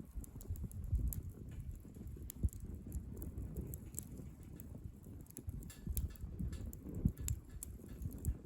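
Wood campfire crackling, with scattered sharp pops at irregular intervals over a low rumble.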